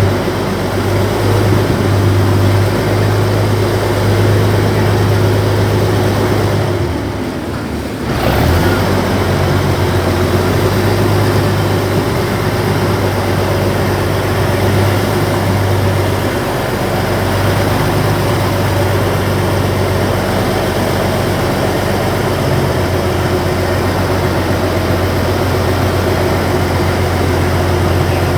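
A river ferry's engine runs at a steady low hum under a constant hiss while the boat crosses, dipping briefly about seven seconds in before picking up again.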